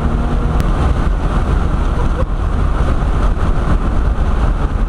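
Nissan Skyline R33 GTS-T on the move, heard from inside the cabin: a steady, heavy rumble of engine and road noise. There is a single sharp click about half a second in.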